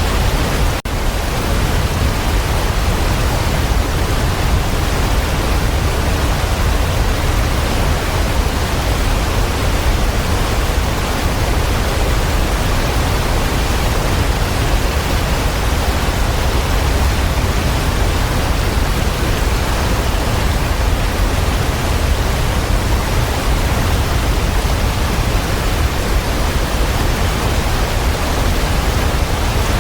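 Waterfall: a steady, even rush of falling water, full and deep, with one brief drop in level about a second in.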